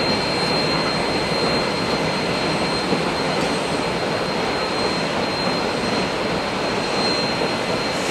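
Narrow-gauge passenger cars rolling steadily across a steel truss bridge, mixed with the steady rush of whitewater rapids below. A thin, steady high whine runs through it.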